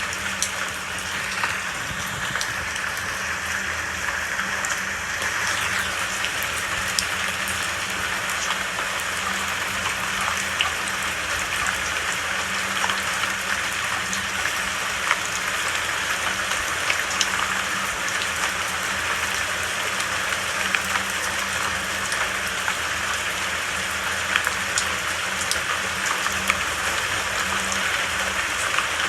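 Steady rain falling, an even hiss with scattered sharp drip and drop ticks.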